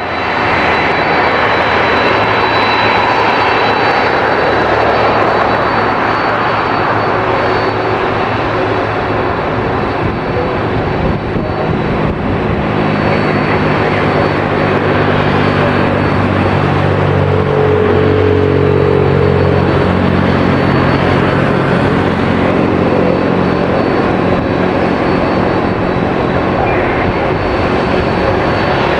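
Boeing 767-300 freighter's twin jet engines running at takeoff power: a loud, steady jet roar with a thin high whine over it. Low humming tones build up about halfway through.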